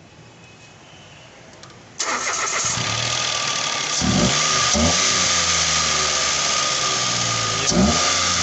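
Mitsubishi Mirage G4 engine started about two seconds in, catching at once and running steadily with a high steady whine. The engine note surges briefly twice, at about four seconds and near the end. It now starts on the first try after its wiring harness repair, cured of its crank-but-no-start fault.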